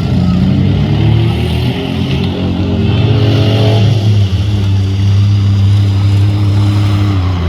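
Demolition derby car engines revving up and down, then settling to a steadier pitch about halfway through.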